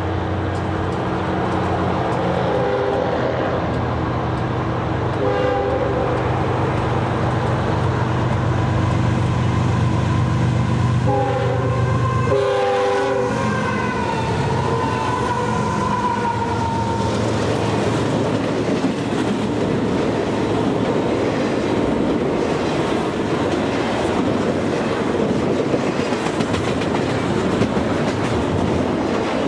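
Union Pacific diesel freight locomotives approach with engines running and sound the air horn: two short blasts, then a longer one about halfway through. As the locomotives pass, the sound gives way to the steady rumble and clickety-clack of double-stack container cars rolling by.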